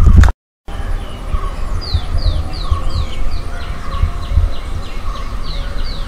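A bird singing a run of short falling whistled notes, about two a second at first, then quicker, over the rumble of wind on the microphone. The sound cuts out for a moment just after the start.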